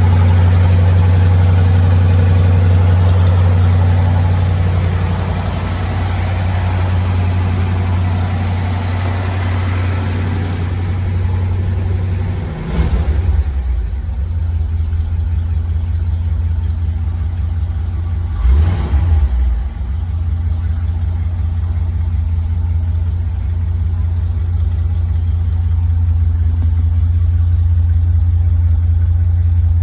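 1957 Ford Thunderbird V8 engine idling steadily. About twelve seconds in the idle drops to a lower, slightly rougher note, with two brief louder swells soon after.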